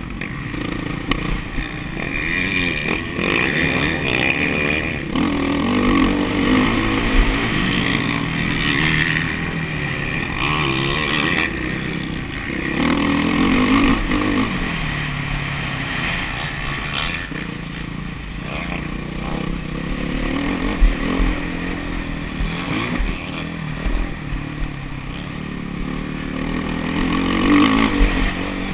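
Motocross bike engine revving up and down repeatedly as it rides, its pitch rising and falling with each throttle change.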